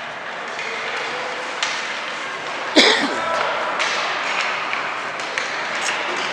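Crowd chatter in a large, echoing hall, with scattered sharp knocks and one loud ringing impact about three seconds in.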